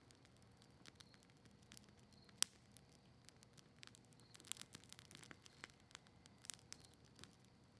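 Campfire of cedar leaves and maple wood crackling faintly, with irregular small pops. There is one sharp pop about two and a half seconds in and a quick flurry of pops a couple of seconds later.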